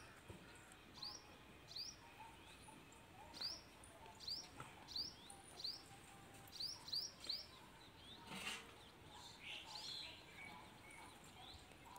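A small bird chirping: about a dozen short, high, rising chirps, most thickly in the middle of the stretch, over a faint outdoor background. A brief noisy sound stands out about two-thirds through.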